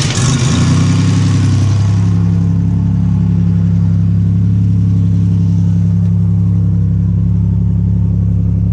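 Buick Grand National's turbocharged 3.8-litre V6 catching from the starter and settling straight into a steady idle.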